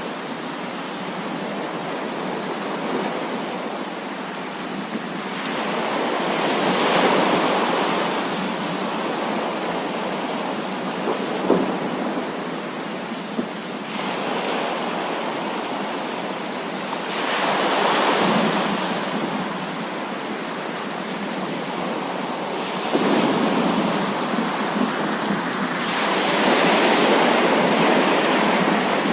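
Heavy rain falling steadily, with rolls of thunder swelling and fading about six seconds in, again around seventeen seconds, and a longer one from about twenty-three seconds to near the end. There is a single sharp tap about twelve seconds in.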